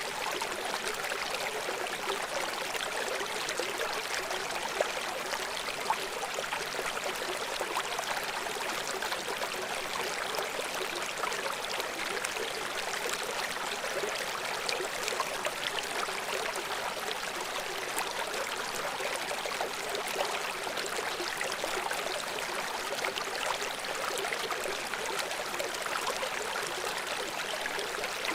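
River water flowing in a steady, even rush, light in the bass, with a couple of brief louder splashes about five and six seconds in.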